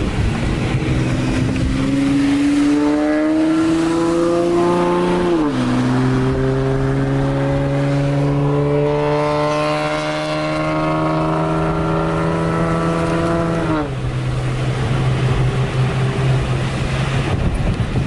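Straight-piped Acura TL V6 exhaust under hard acceleration. The pitch rises through a gear, drops at an upshift about five and a half seconds in, climbs again through the next gear, and drops at another upshift about fourteen seconds in before settling into steady running.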